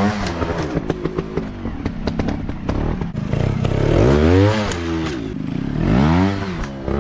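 Motocross dirt bike engine revving in bursts, its pitch rising and falling three times, with rapid rattling knocks between the revs.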